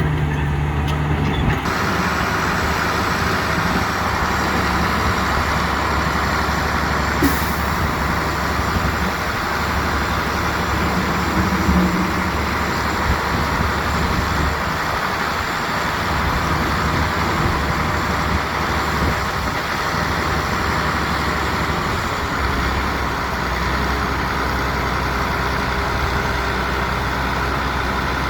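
Heavy diesel construction machinery running steadily, its low engine drone under a wide mechanical rumble, with a brief sharp click about seven seconds in.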